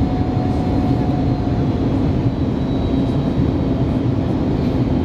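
Steady cabin noise of an Airbus A321neo in flight on descent toward landing: an even roar of airflow and engines heard from a window seat, with a faint thin tone that fades out about two seconds in.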